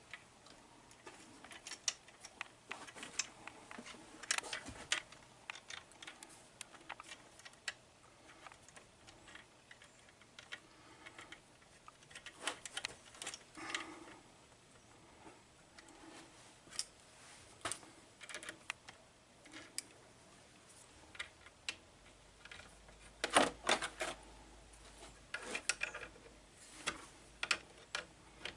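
Scattered small clicks, taps and light scrapes of metal parts being handled as a bent copper-wire tip is fitted into a soldering gun and its nuts are tightened, with a denser run of clicks a little past two-thirds of the way through.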